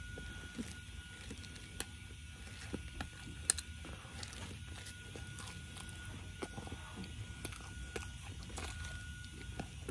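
Close-miked chewing and biting of a steak and potato cheese pizza: irregular wet mouth clicks and crackles, the sharpest about three and a half seconds in.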